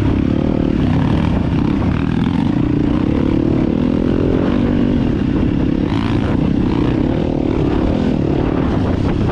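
Dirt bike's four-stroke single-cylinder engine running steadily under throttle on a trail ride, its pitch easing down and back up now and then, with wind rushing over the microphone.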